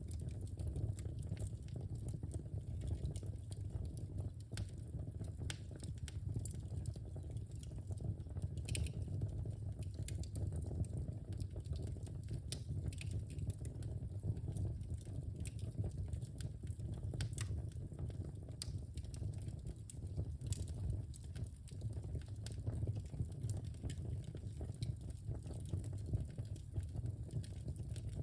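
Wood fire burning in a fireplace: a steady low rumble of the flames with frequent sharp crackles and pops from the logs.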